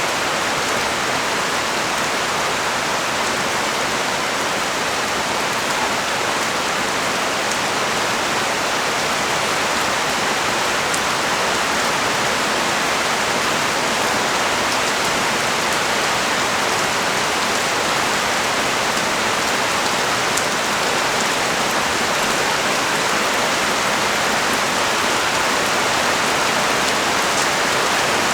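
Heavy rain pouring steadily onto a street, a dense, even hiss with faint scattered drop ticks.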